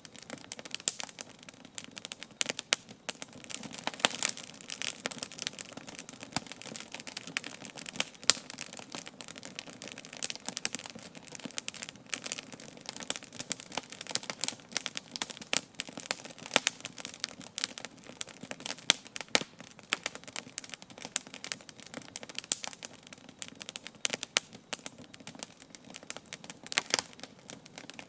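Wood campfire burning: a dense, irregular run of crackles and sharp pops, with several louder snaps each second.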